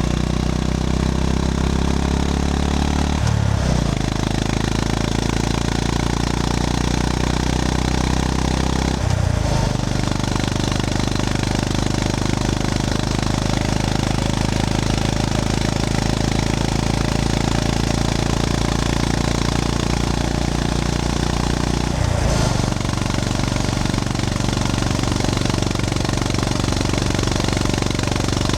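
Honda GB350S single-cylinder engine running as the motorcycle is ridden, its pulsing note heard with wind and road noise. The note breaks off and comes back changed three times, about 3, 9 and 22 seconds in, as gears are shifted.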